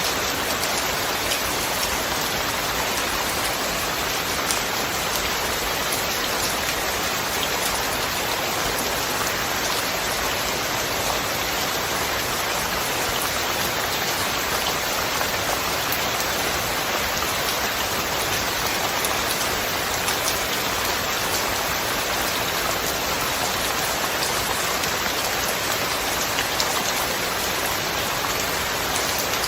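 Steady rain falling, an even hiss with the light patter of single drops standing out now and then, with no thunder.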